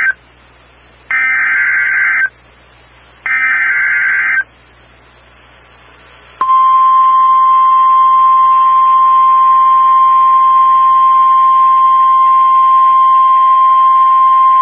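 NOAA Weather Radio alert signalling: the end of the first SAME digital header burst, then two more, each a one-second burst of warbling two-tone data. A few seconds later the single steady 1050 Hz warning alarm tone sounds for about nine seconds, marking a severe thunderstorm warning about to be read.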